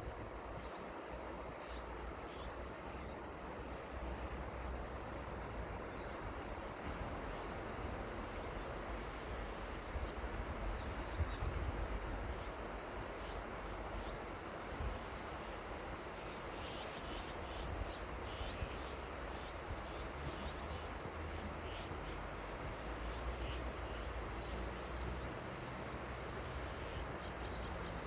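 River water flowing, a steady even rushing, with a low rumble of wind on the microphone and a few faint high chirps in the middle and near the end.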